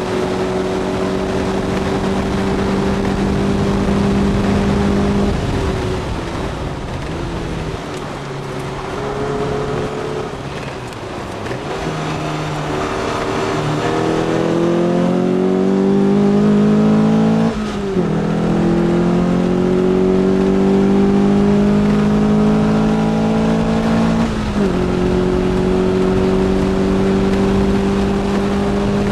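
S1 Lotus Elise's Rover K-series four-cylinder engine under hard driving on track, heard from inside the cabin: held at high revs, easing off about five seconds in, then climbing through the revs with two upshifts, each a sudden drop in pitch, about seventeen and twenty-four seconds in. Steady road and wind noise runs underneath.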